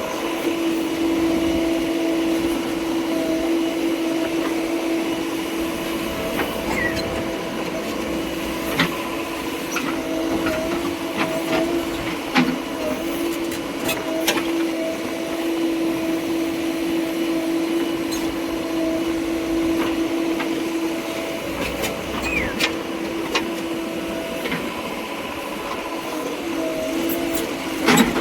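Heavy machine's diesel engine running steadily with a constant hum, with a few sharp clicks and knocks now and then.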